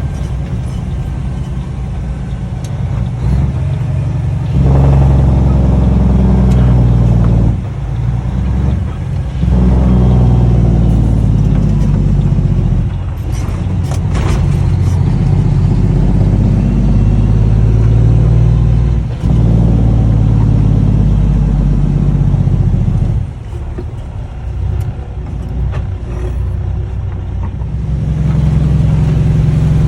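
Cummins ISX diesel in a Kenworth T800 running loud through six-inch straight pipes, its deep note rising and falling as it pulls. It comes up strongly about four seconds in, drops off briefly a few times, and eases for a few seconds before coming back up near the end.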